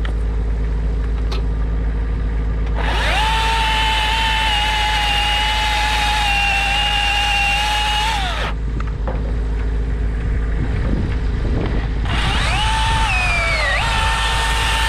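Chainsaw running at full throttle in two bursts, the second dipping in pitch as the chain bites into the wood. A steady low engine hum runs underneath.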